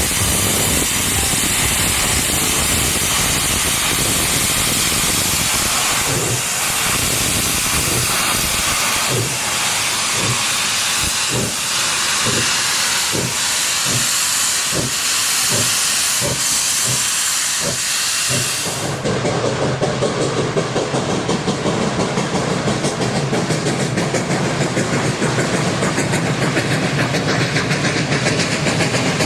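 2-8-0 steam locomotive Duluth & Northeastern No. 28 working: loud steam hiss with even exhaust chuffs, about one and a half a second, quickening slightly. About two-thirds of the way through the sound changes abruptly to a denser, rapid pulsing of the train running, with less hiss.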